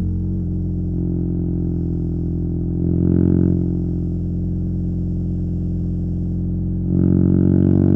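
BMW R nineT's boxer-twin engine through a Competition Werkes slip-on exhaust, running at steady low revs while riding, with a brief throttle rise about three seconds in and a louder pull from about seven seconds as the revs begin to climb.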